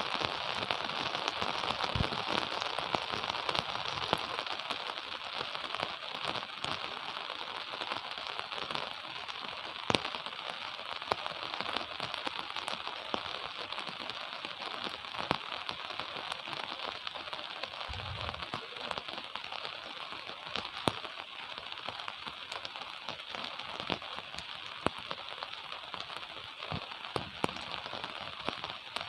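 Steady gentle rain, with many scattered drops ticking sharply and a few louder single drips.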